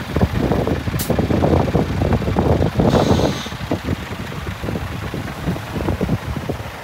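Scania G500 tipper truck's diesel engine running, an uneven low rumble, with a sharp click about a second in and a short hiss around three seconds in.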